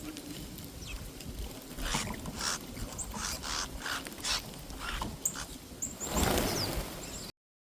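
Small birds at a backyard feeder: a run of short rustling strikes, about two a second, with a few short high chirps and a brief rush of noise near the end. The sound then cuts off suddenly.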